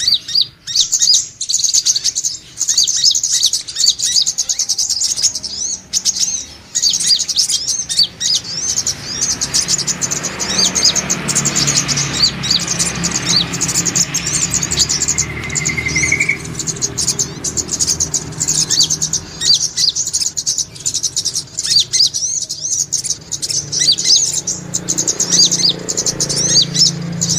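Brown-throated sunbird (sogok ontong) twittering: a fast, continuous run of high, thin chirps and trills. A faint low hum runs underneath through the middle part.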